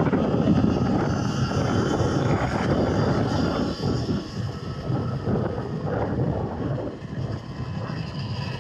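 Wind rushing over the microphone, with road noise, from riding a Surron electric dirt bike. It is loudest for the first few seconds and then eases a little.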